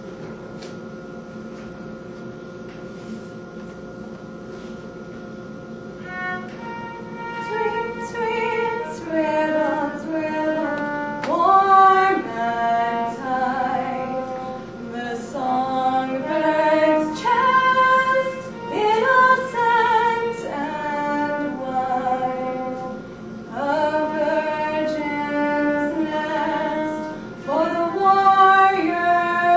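A sustained instrumental chord holds alone for about six seconds, then a woman begins singing a slow, classical-style melody over it, continuing through to the end.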